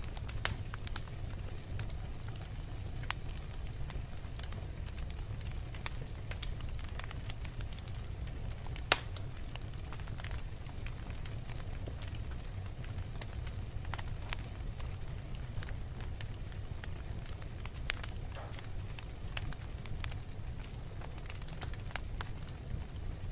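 Wood fire burning in a fireplace: a steady low rumble of flames with scattered crackles and pops from the burning logs, one sharp pop louder than the rest about nine seconds in.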